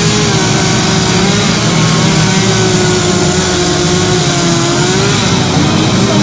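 Chainsaws running at high revs while carving wood, loud and steady, their pitch wavering slightly as they take and ease off the cut.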